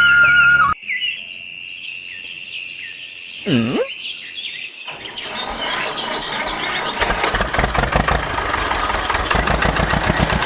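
Birds chirping, then from about five seconds in a small engine starts up and runs with a rapid, even clatter.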